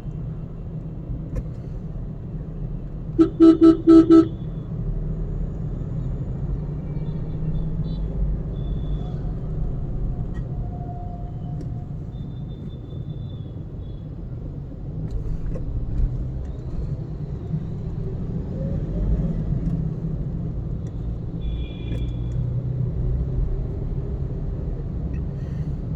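Steady low road and engine rumble of a car driving in traffic, with four quick toots of a car horn about three seconds in.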